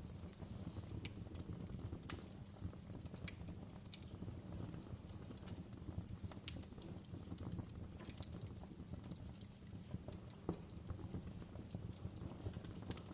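Wood fire burning in a fireplace: a steady low rumble of flames with irregular sharp crackles and pops, one louder pop about ten seconds in.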